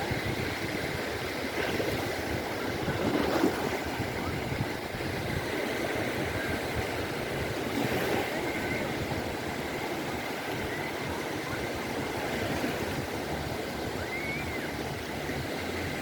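Mediterranean sea waves breaking and washing up a beach in a steady surf, swelling a little louder about three seconds in and again around eight seconds. Faint short chirps come through now and then.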